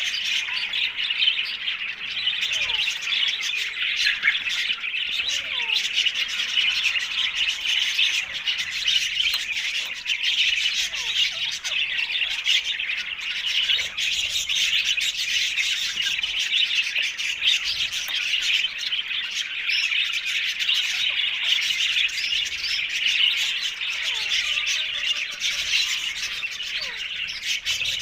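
Ring-necked parakeets chirping and squawking continuously in a dense, overlapping chatter.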